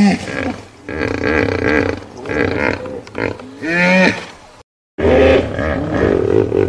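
Hippopotamus calling: loud pitched honks that rise and fall in pitch, two strong ones at the start and about four seconds in, with a brief dropout to silence just after the second.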